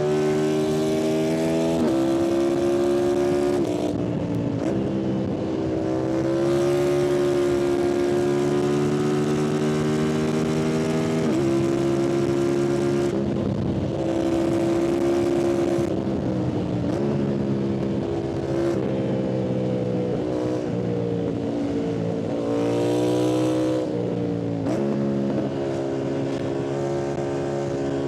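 Yamaha MT-07's parallel-twin engine and exhaust under way at a steady throttle. The engine note drops sharply several times, picks up again, and climbs in a rev about three-quarters of the way through.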